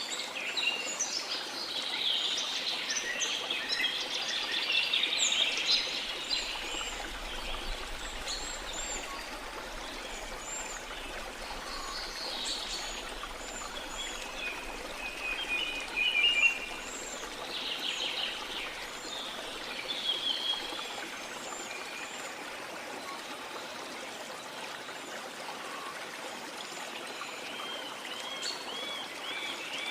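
Steady rushing of a flowing river, with many birds chirping and calling over it; the bird calls are busiest in the first few seconds, with a quick trill near the middle and repeated chirps near the end.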